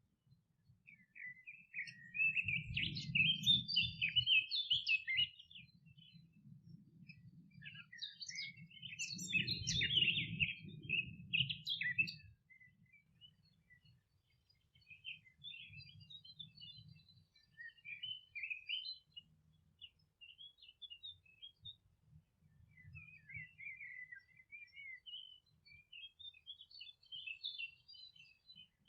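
Songbirds singing on a meadow: two louder bouts of rapid chirping, then quieter scattered phrases for the rest.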